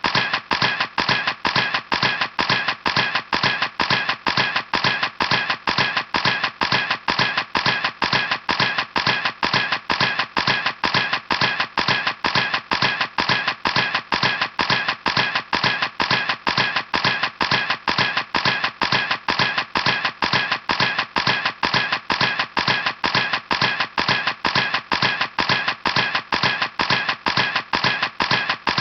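Camera shutter clicking over and over at an even pace, about three clicks a second, each click identical.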